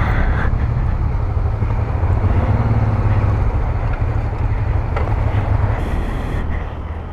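Engine of a Honda Transalp 650 V-twin motorcycle running steadily under way, with wind noise rushing over the microphone. It eases off near the end.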